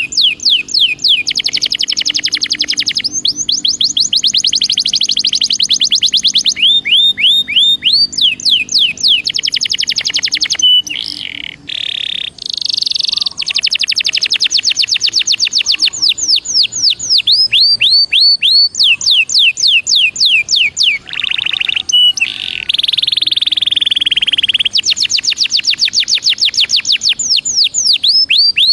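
Belgian canary singing: long runs of rapid repeated notes and rolling trills, broken by a few short pauses and some held notes.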